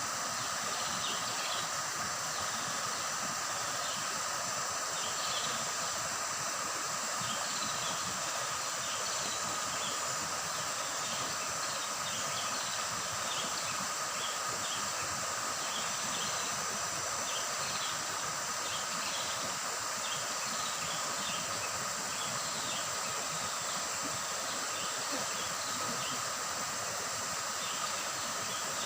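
Shallow river babbling steadily over stones, with a continuous insect drone and frequent short bird chirps over it.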